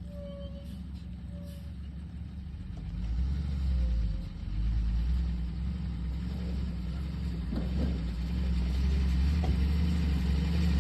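Heavy vehicle engine running with a steady low rumble, swelling louder about three seconds in and again near the end.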